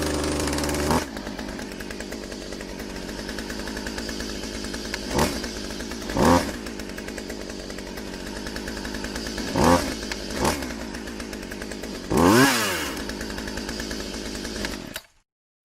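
A small motor running steadily with a fast pulsing drone. It rises and falls in pitch briefly five times, most strongly near the end, then cuts off suddenly.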